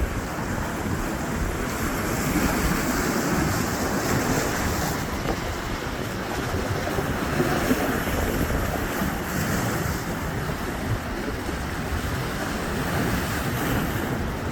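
Storm-driven surf breaking steadily, with wind buffeting the microphone.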